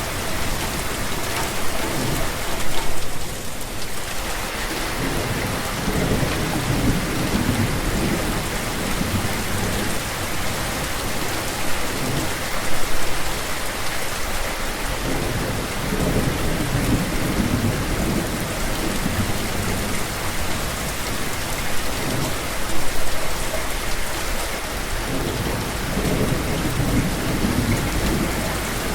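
Steady rain falling, with low rumbles of thunder that swell and fade every few seconds.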